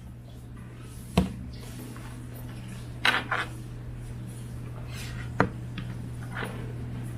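A few sharp clicks and clinks of small hard objects being handled and set down, over a steady low hum.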